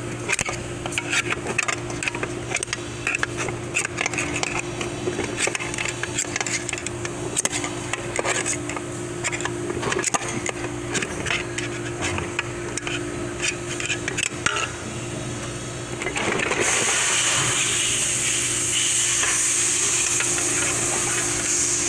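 Flathead screwdriver clinking and scraping against metal inside a 4L60E transmission case, prying at the band to work the input shaft and drum loose, over a steady low hum. About sixteen seconds in, a steady hiss starts and carries on.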